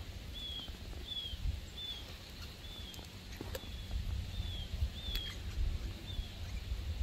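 A bird calling with short, high, slightly falling chirps, evenly repeated about one every three-quarters of a second, over a low rumble.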